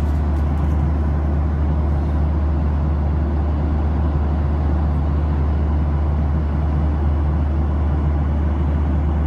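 Steady, deep drone of a commercial airliner's cabin at cruise: jet engine and airflow noise heard from inside the plane.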